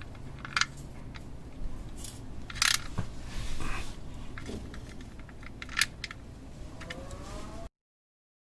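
Scattered sharp clicks and light metallic clinks of hand tools and car parts being handled, with a short rustle about three and a half seconds in; the sound cuts off abruptly near the end.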